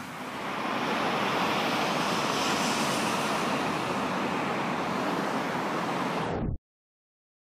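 Loud, steady rush of a big truck's engine and running noise, swelling over the first second and then cutting off abruptly about six and a half seconds in.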